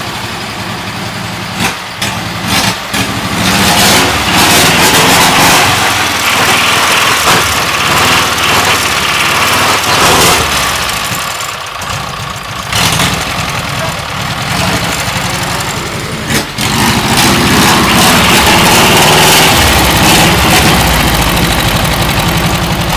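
A ZAZ Zaporozhets air-cooled V4 engine, run out of the car, running loudly and unevenly. It sags about eleven seconds in, then picks up and runs harder near the end.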